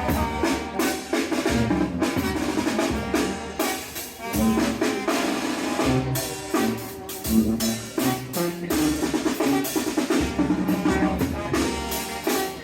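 Band music with a steady drum-kit beat, the snare and bass drum hits standing out over the other instruments.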